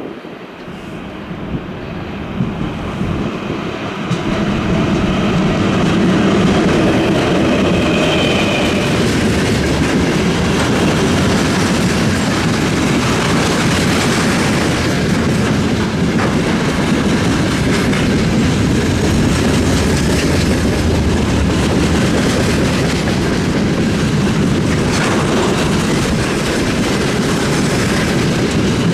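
2ES5K Ermak two-section AC electric locomotive hauling a freight train. It grows louder over the first few seconds as it approaches, then runs by steadily, with the wagons' wheels clattering over the rail joints.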